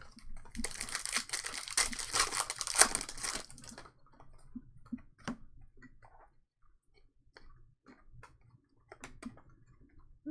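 A trading-card pack wrapper being torn open and crinkled for about three seconds, then faint scattered clicks of cards being handled.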